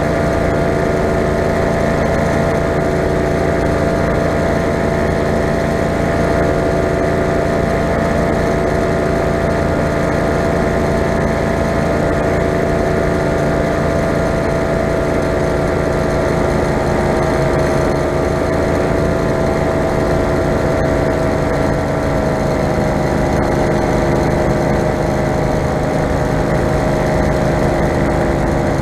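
Four-stroke paramotor engine running steadily under power in flight, its pitch easing down slightly about two-thirds of the way through.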